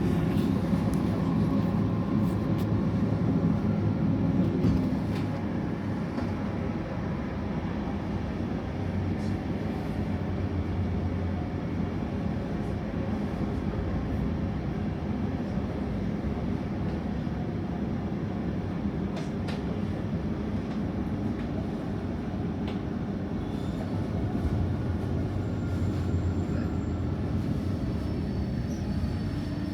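ÖBB REX8 regional train running along the track, heard from on board: a steady rumble with a low hum and a few faint clicks, a little louder for the first few seconds.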